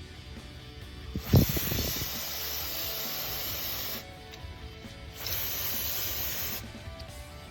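Background music, with a sharp clatter about a second in and then two stretches of loud, even hissing that start and stop abruptly.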